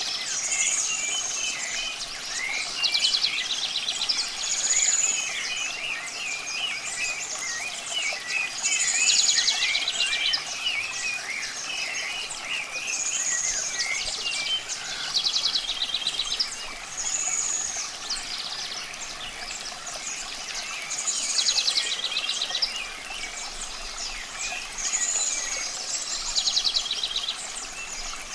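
A chorus of songbirds: many quick chirps, with one high call and a buzzy trill that each come back every few seconds. Under them lies a steady hiss of running water.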